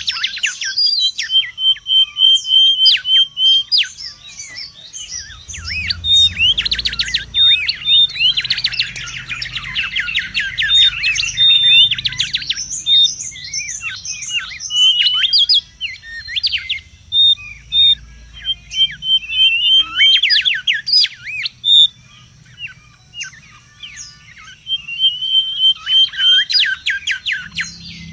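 Mangrove whistler (kancilan bakau) calling busily: a rapid run of sweeping whistles, short repeated notes and stuttering trills, in dense bursts with brief gaps. This is the excited, noisy calling that bird keepers use as a lure and to tutor caged birds.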